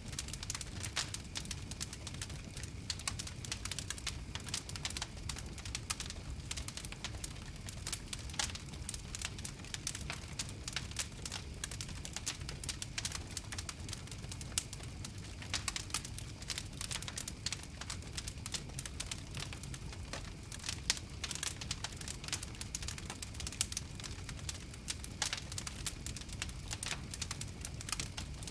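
Wood fire crackling, with frequent irregular sharp snaps and pops over a steady low rumble.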